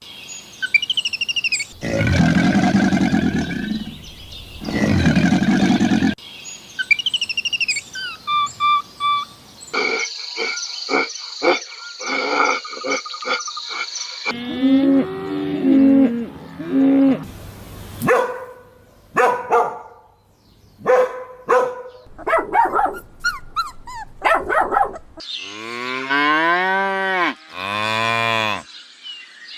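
A series of different animal calls cut one after another, among them cattle mooing.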